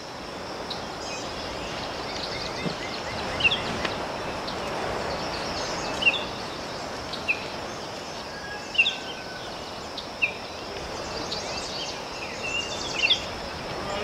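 Outdoor ambience of hilltop forest: a steady background hiss with small birds giving short, high chirps every second or two, busiest near the end.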